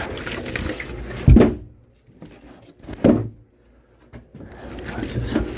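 Handling noise with two heavy thumps, one a little over a second in and the loudest, the other about three seconds in, like objects being knocked or set down on a hard surface. Quiet stretches lie between them, and rustling picks up again near the end.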